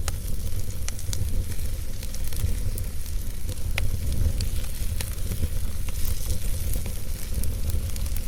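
Log fire burning in a fireplace: a steady low rumble of flames with scattered crackles and pops from the burning wood, one sharper pop about four seconds in.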